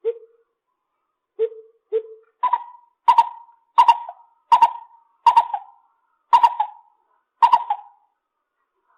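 Lesser coucal calling: three low notes, then a series of about seven higher notes that come slightly more slowly toward the end.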